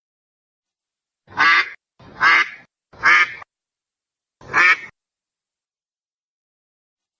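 A duck quacking four times, three quacks in quick succession and a fourth a second later.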